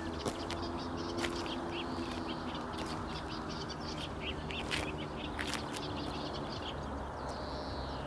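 Birds chirping in short calls over a steady low hum, with scattered clicks.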